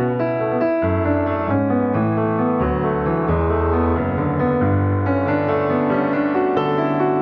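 Piano music: sustained notes and chords over low bass notes.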